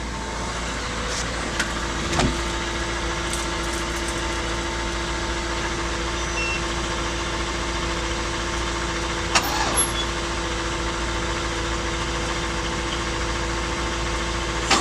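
Cadillac car engine idling steadily as it warms up in freezing weather. A steady higher hum joins about two seconds in, with a brief click about nine seconds in.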